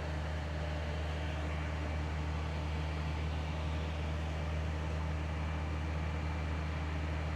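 Engine of a RoboCut T400 remote-controlled mower running steadily, a low even drone.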